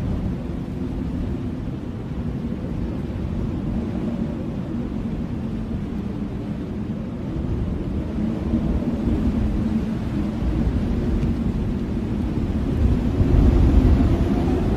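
Blizzard wind blowing steadily as a deep, low rumble, swelling louder in a gust near the end.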